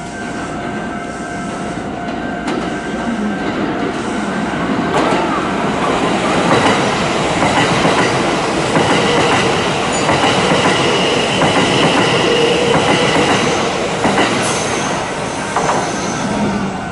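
Kintetsu limited express train running through a station at speed: wheel-and-rail rumble and clatter that builds as the train draws level and eases as it goes by, with a thin high wheel squeal in the middle.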